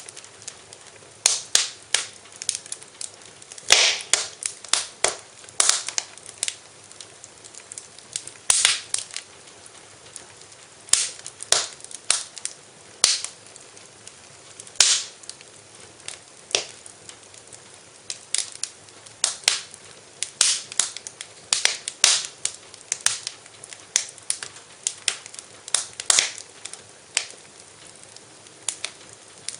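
Wood fire in a fireplace crackling, with irregular sharp pops and snaps, often several in quick succession, over a steady low hiss.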